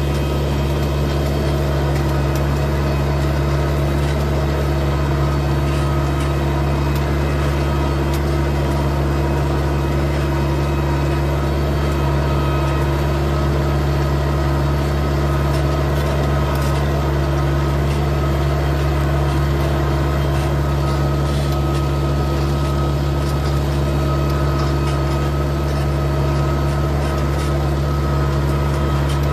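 A4800 tractor's engine running steadily at a constant speed, with a steady hum and no change in load.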